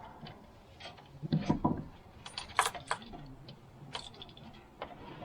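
Clicks and clanks of hand tools and small metal parts being handled during carburetor removal on a small two-stroke motorcycle. There is a short clatter a bit over a second in and a few sharp clicks around the middle.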